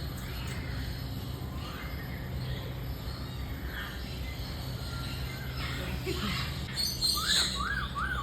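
A bird calling over a steady low background hum: near the end, a quick run of about half a dozen identical rising-and-falling chirps.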